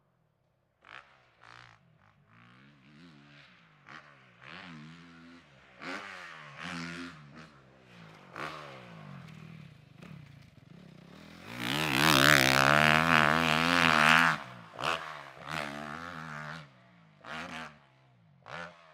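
Motocross dirt bike engine revving up and down as it is ridden around the track, blipping the throttle over and over. It is faint at first, gets loud and close about twelve seconds in with the pitch falling as it passes, then fades off again.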